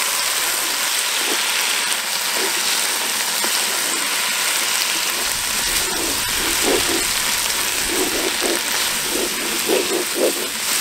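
Diced vegetables and tomato paste sizzling steadily in a hot cast-iron Dutch oven just after being deglazed with sherry, the liquid cooking off as steam. A wooden spoon stirs through them.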